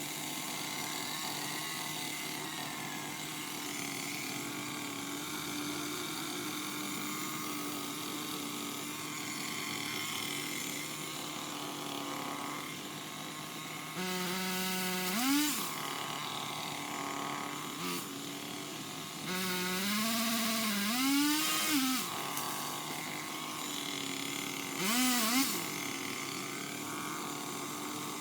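Craftsman power limb cutter (a pole saw) revving in short spells as it cuts limbs, its motor pitch rising and falling, about halfway through, again a little later for a couple of seconds, and once more near the end. A steady mechanical hum runs underneath.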